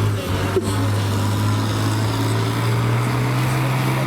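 Farm tractor's diesel engine running steadily under load, with a short sharp click about half a second in.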